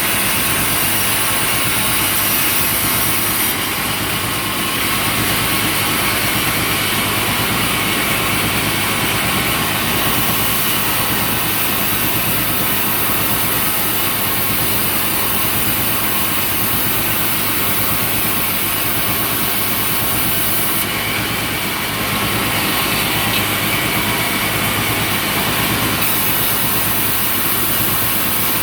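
Sawmill machinery running steadily: a dense, continuous mechanical noise over a low engine hum, with the high hiss rising and falling a few times.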